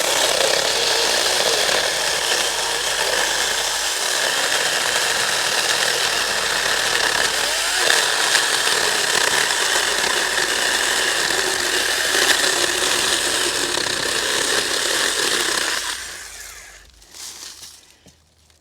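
Saker Mini 4-inch battery-powered cordless chainsaw cutting through resinous pine fatwood, running steadily under load. It stops about sixteen seconds in.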